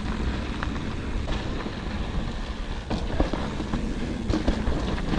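Mountain bike rolling over a rough dirt trail: steady tyre and drivetrain noise with scattered rattles and clicks, and wind rumbling on the microphone.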